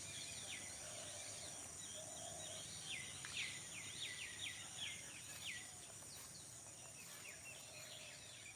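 Faint early-morning field ambience: several birds chirping over a steady high insect drone. About three seconds in, one bird gives a quick run of about ten falling notes lasting two to three seconds.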